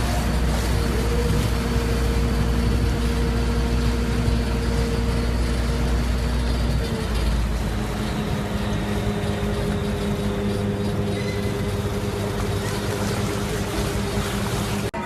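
A steady engine hum with a low rumble, its pitch stepping slightly lower about seven seconds in.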